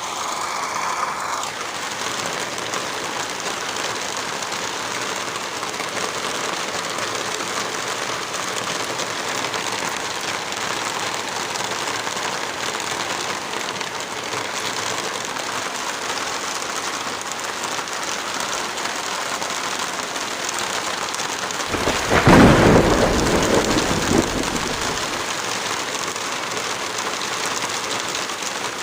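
Heavy rain falling steadily as an even hiss. About 22 seconds in, a loud low rumble swells and dies away over about three seconds.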